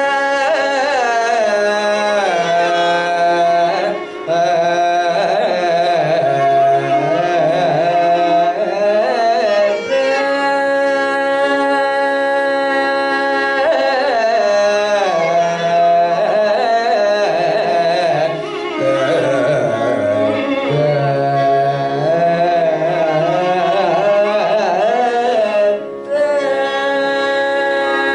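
Carnatic vocal music: a singer's voice sliding through heavily ornamented phrases over a steady drone.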